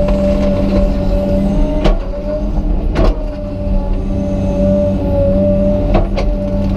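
Komatsu PC200 excavator's diesel engine running steadily under load with a steady high whine, broken by a few sharp cracks about two, three and six seconds in as the machine breaks a pine tree's roots.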